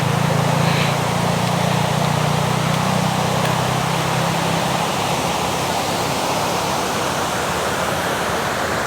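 River water rushing steadily over rocks, a constant hiss-like roar, with a low hum underneath for the first few seconds that fades out about halfway through.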